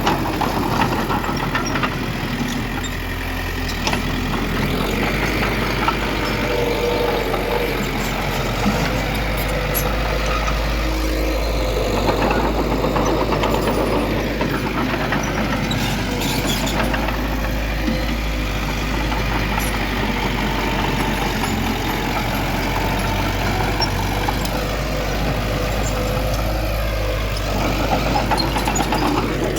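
Diesel engine of heavy earthmoving machinery running steadily with a low drone.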